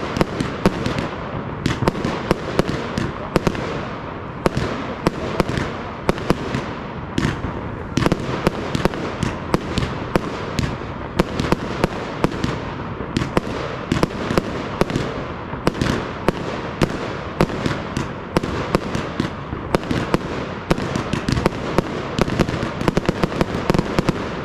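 Fireworks display: a continuous barrage of shell bursts and reports, several bangs a second with no pause.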